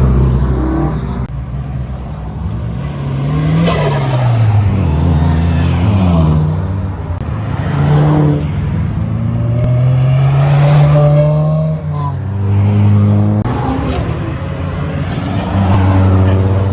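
Several Japanese performance cars' engines revving and accelerating away one after another, the pitch rising and falling repeatedly with one longer steady pull in the middle. A single sharp crack about twelve seconds in.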